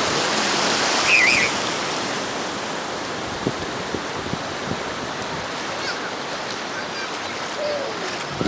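Ocean surf breaking and washing up the beach: a wave swells just before and peaks about a second in, then a steady wash of water.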